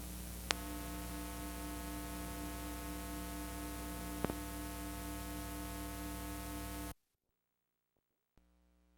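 Steady static hiss with a low mains hum and a few faint steady tones, broken by two sharp clicks. It cuts off abruptly about seven seconds in, and a faint hum comes back near the end.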